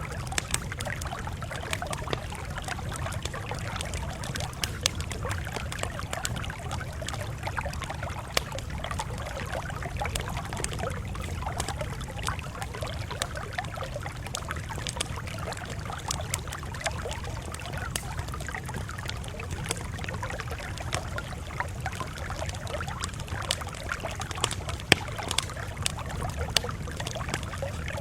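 Campfire crackling steadily, with frequent irregular sharp pops over a low steady rumble.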